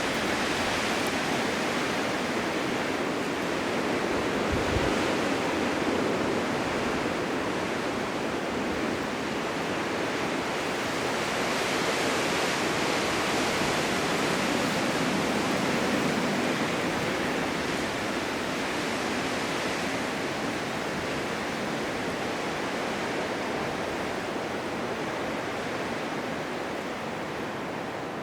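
Blizzard wind: a steady rushing noise that swells and eases slowly, a little softer near the end.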